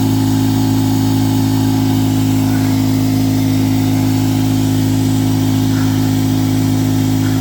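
Shop air compressor running, a steady, unchanging mechanical hum.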